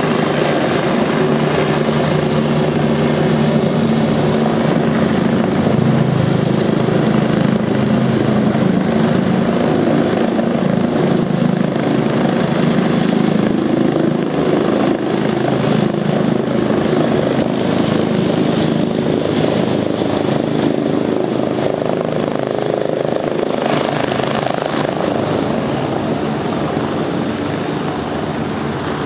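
Air ambulance helicopter's rotor and turbine noise, a steady drone that eases off slightly near the end.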